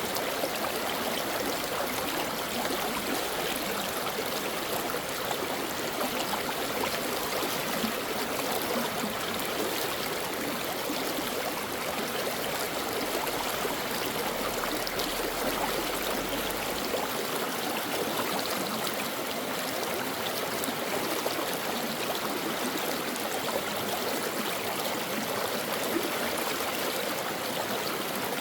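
A shallow stream flowing steadily over rocks, a continuous rushing and burbling of water.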